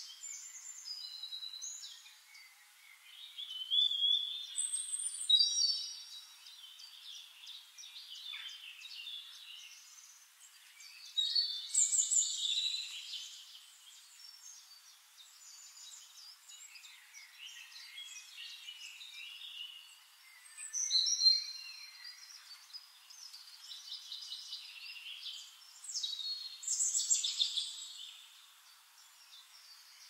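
Songbirds singing: high chirps and trills from several birds overlapping, coming in louder bursts every few seconds.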